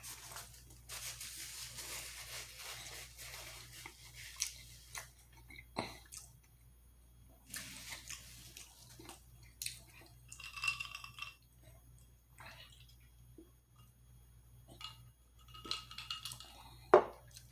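Close-up eating and handling sounds: scattered clicks, taps and clinks of dishes and food packaging, with wet, dripping liquid sounds and two short ringing clinks partway through.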